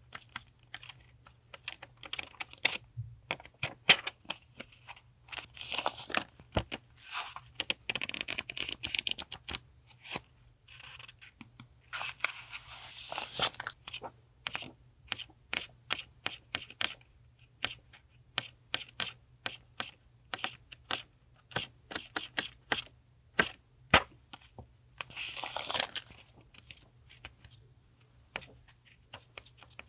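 Stationery and its packaging being handled on a desk: scattered light taps and clicks, with several short bursts of paper or plastic rustling and crinkling.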